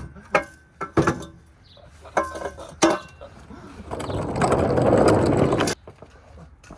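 A few sharp metal knocks and clinks of tools on car parts, then a burst of mechanical rattling lasting under two seconds that cuts off suddenly, like a ratcheting tool at work on a bolt.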